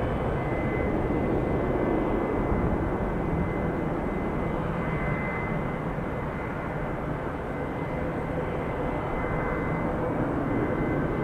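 Airbus A319 jet airliner's engines at takeoff power as it departs: a steady rumble with a thin high whine.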